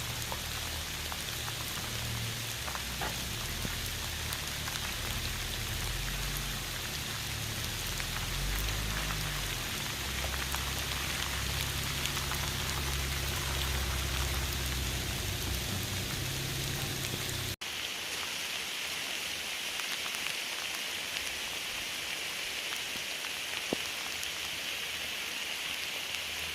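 Heavy rain falling steadily, an even hiss. For roughly the first two-thirds a deep low rumble runs under it; then it cuts off abruptly and only the rain's hiss remains.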